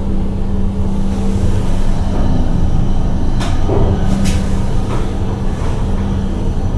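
Steady low machinery hum with a constant pitch, broken by a few short sharp clicks about three and four seconds in.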